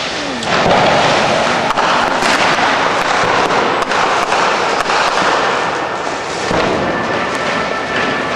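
Fireworks going off densely: many sharp bangs in quick, irregular succession over a continuous crackling din.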